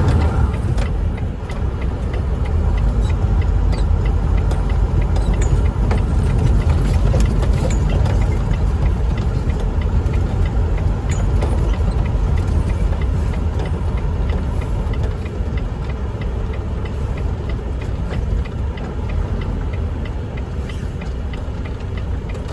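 Semi truck's diesel engine running, a steady low rumble heard from inside the cab.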